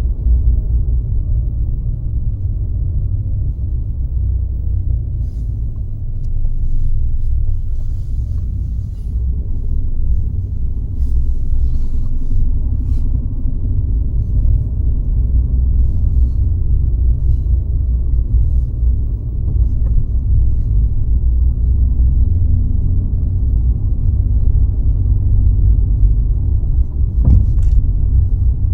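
Car driving along at steady speed: a continuous low rumble of engine and tyres on the road. A single short knock comes near the end.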